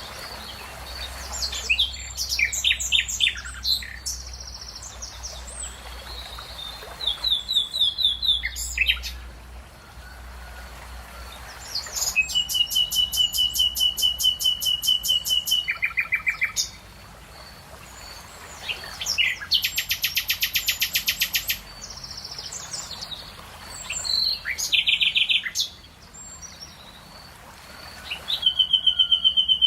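Songbirds singing in a series of varied phrases with short pauses between them. Two long, rapid trills stand out, one of about four seconds and another of about two and a half seconds, over a faint steady background.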